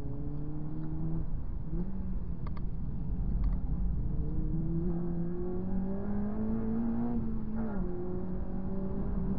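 Honda Civic Type R FD2's 2.0-litre K20A four-cylinder engine under hard acceleration, heard from inside the cabin. Its pitch dips briefly about a second in, then climbs steadily for about five seconds and drops suddenly at an upshift near the end.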